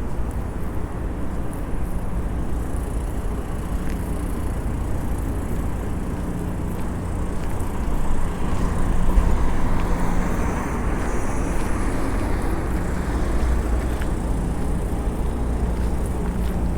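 City street traffic: a steady low rumble of engines and tyres, with one vehicle passing and swelling louder about halfway through.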